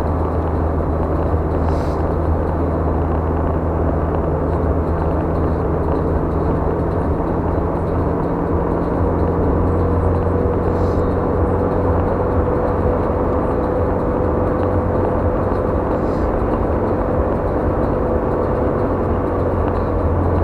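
Steady road noise of a car driving on a highway, heard from inside the cabin: a low engine and tyre rumble, with a faint steady whine above it.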